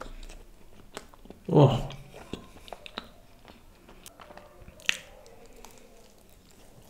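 Close-miked chewing of a soft chocolate pastry: wet mouth clicks and smacks throughout, with a brief hum of the voice about a second and a half in and a sharper click near five seconds.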